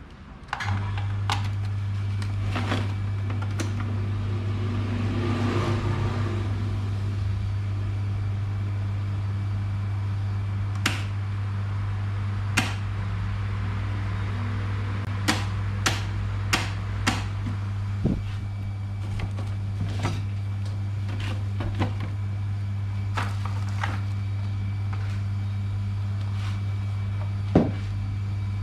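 Hatari electric fan's motor switched on about half a second in and running with a steady low hum, with scattered sharp clicks and taps.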